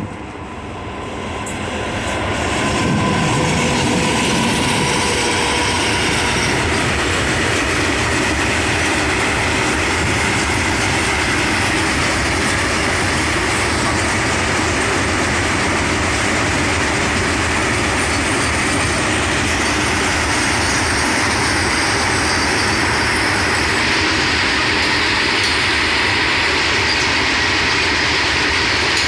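A train running on the rails. It grows louder over the first three seconds, then holds a loud, steady rumble with a faint high tone above it.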